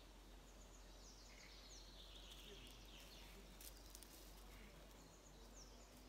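Faint woodland ambience with distant wild birds calling: a few short high chirps and a longer falling call in the middle.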